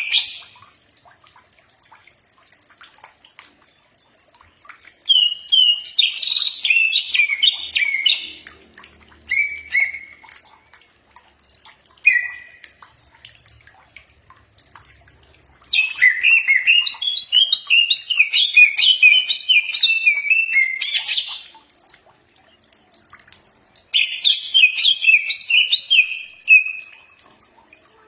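Cucak ijo (green leafbird) singing in bursts of rapid, chattering high notes separated by pauses. The longest phrase runs about six seconds in the middle, and shorter ones come near the start and near the end.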